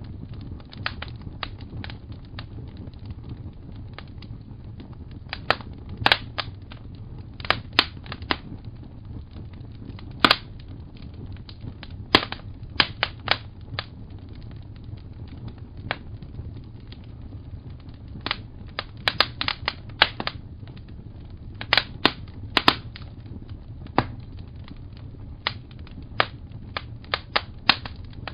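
Wood fire crackling: irregular sharp pops and snaps, clustered at times and sparse at others, over a steady low rumble of the flames.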